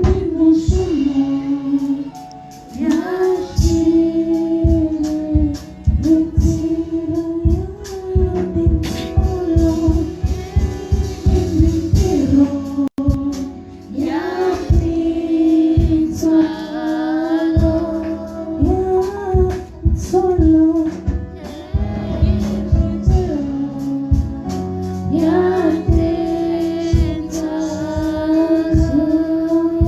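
Gospel song with singing voices over a steady beat, cutting out for a moment about halfway through.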